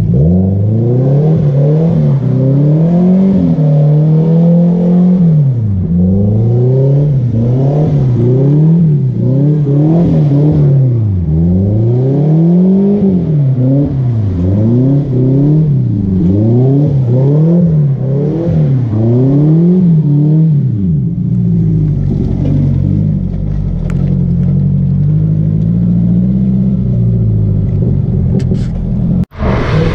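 Car engine revving hard up and down over and over, about once every second and a half, as the car slides through drifts and donuts on wet pavement. About two-thirds of the way in, the revs settle into a steadier, lower running with smaller swings. The sound cuts out for an instant near the end.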